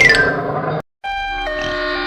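Electronic chime tones: a quick run of notes falling in pitch, a brief dead-silent cut, then held tones that step down in pitch like a ding-dong.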